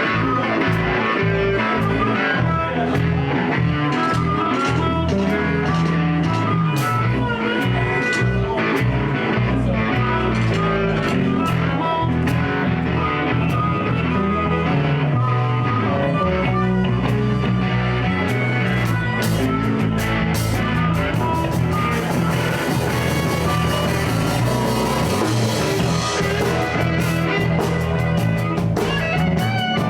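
Live blues band playing a song: electric guitars over bass guitar and a drum kit keeping a steady beat.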